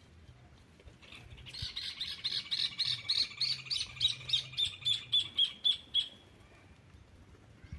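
A bird singing a long trill of quick repeated high notes, about five a second for some four to five seconds, dropping slightly in pitch toward the end.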